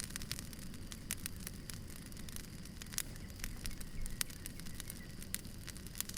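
Wood fire crackling: irregular sharp pops and snaps, a few louder than the rest, over a steady low rumble of burning logs.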